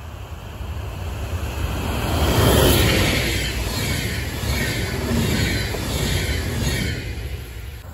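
A DB Intercity 2 double-deck passenger train passes close by at speed, with the rumble of its wheels on the rails and the rush of air. The sound builds as it arrives, is loudest about two and a half seconds in, and falls away near the end as the last coach goes by.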